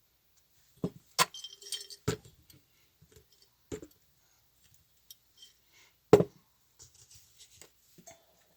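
Small hard objects being handled on a table: a few sharp knocks, the loudest about six seconds in, with light jingling clinks between them.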